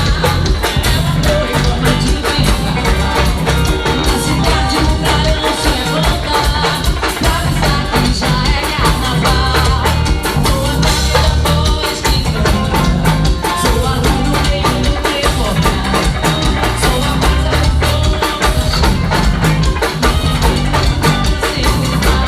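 Live axé band music with drums and percussion, loud and continuous.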